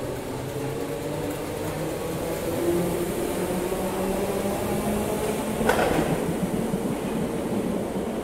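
Merseyrail electric multiple-unit train pulling out of an underground station, a steady rumble of wheels on rail with a hum of several low tones. A single sharp clank comes near the end.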